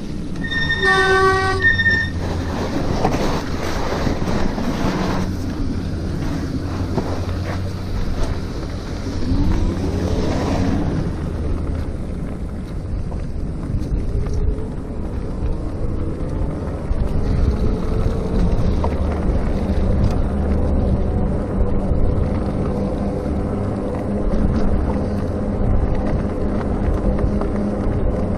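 Electric bicycle riding with steady wind and road rumble on the microphone. About a second in, the RadMini's disc brake gives one short, loud, pitched squeal, the sign of brakes that need adjusting. A rising whine follows about ten seconds in.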